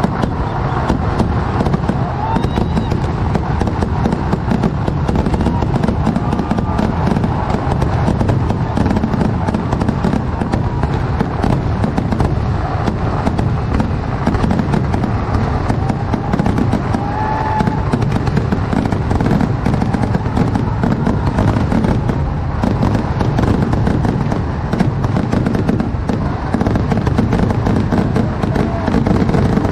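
A dense, unbroken barrage of fireworks: rapid overlapping bangs and crackling with no pause, and a few faint short whistles.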